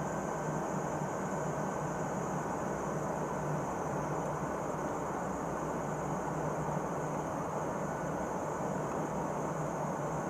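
Steady drone of an aircraft cabin in flight: a constant low hum under an even hiss, with no change in pitch or level.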